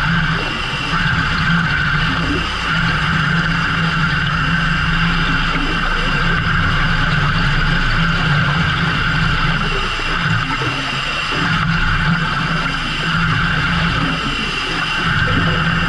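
Fishing boat's engine running steadily at a constant pitch, with a steady droning hum.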